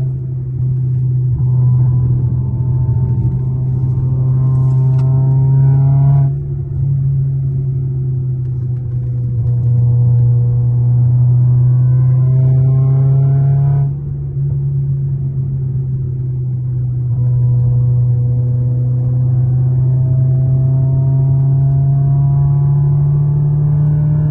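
Toyota Corolla's M20A-FKS four-cylinder engine, fitted with a Camry throttle body, pulling under acceleration: its pitch climbs slowly and steadily, then drops sharply at a shift, twice, before climbing again.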